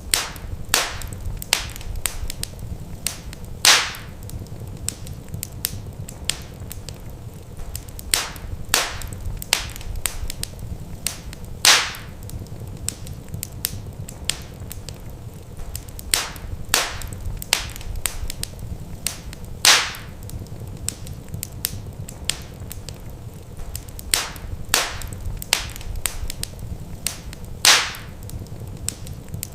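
Wood fire crackling in a fireplace: a steady run of sharp crackles and snaps, with a few louder pops about eight seconds apart, over a low steady rumble.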